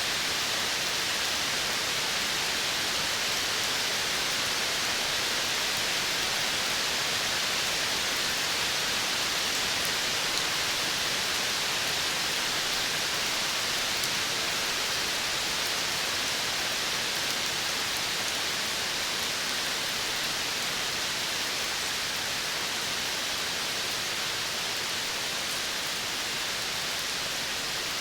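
Steady, even hiss of a natural outdoor ambience, strongest in the upper-middle range, with no distinct calls standing out.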